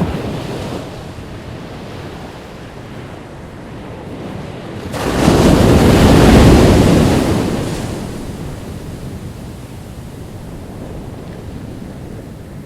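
Ocean waves breaking on a beach: a small wash at the start, then one large wave crashes about five seconds in and its roar fades away over the next few seconds, with wind on the microphone.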